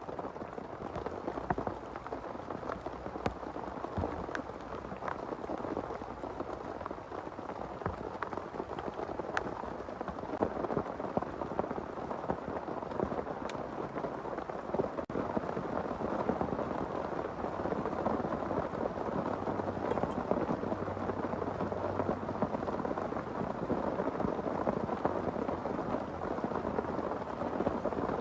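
Heavy rain falling steadily, with scattered sharp drop impacts, growing a little heavier about halfway through. A low rumble of thunder comes in around two-thirds of the way in.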